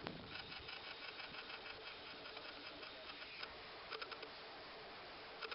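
Video camera's own mechanism making a rapid run of small ticks for a few seconds, then short bursts of ticking again about four seconds in and near the end.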